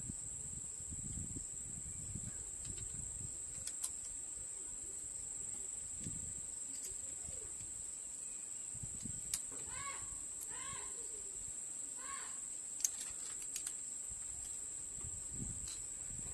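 Quiet background with a steady high whine throughout, scattered light clicks, and a few short bird calls, three in a row about ten to twelve seconds in.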